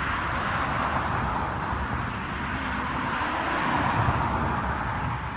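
Kawasaki ZR-7's air-cooled inline-four engine running steadily, getting a little louder about four seconds in.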